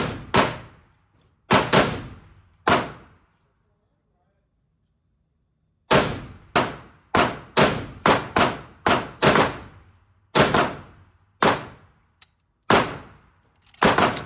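Gunfire on a shooting range: single shots, each followed by a fading echo. There are a few shots early, a silent gap, then a quicker string of shots about half a second apart from about six seconds in.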